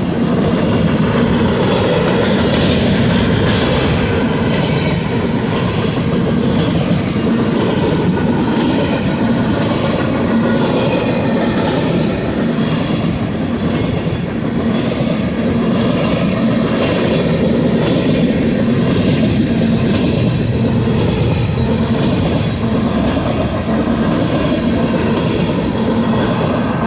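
Manifest freight train rolling steadily past, its steel wheels running on the rails.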